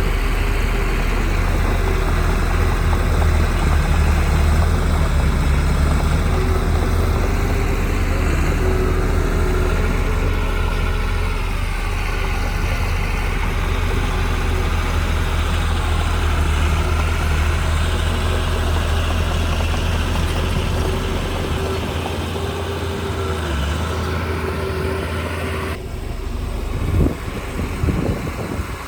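Heavy diesel earthmoving equipment (bulldozer or dump truck) running with a steady low engine hum. Near the end the sound changes abruptly and a few sharp knocks are heard.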